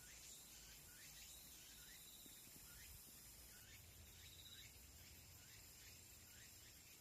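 Faint rural outdoor ambience: a steady high insect drone, with short chirps that sweep in pitch about once a second and two brief buzzes.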